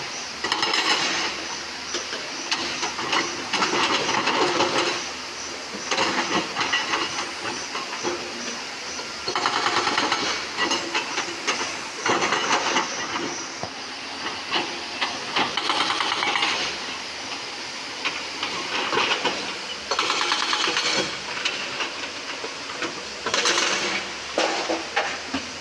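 JCB excavator working rock: a steady engine sound broken every few seconds by loud hissing, grinding bursts of a second or two.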